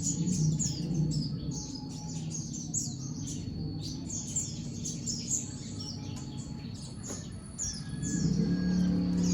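Kolibri ninja (konin), a small sunbird, singing a continuous chattering song of rapid, sharp, high-pitched chirps and quick down-slurred notes. A low steady hum runs underneath.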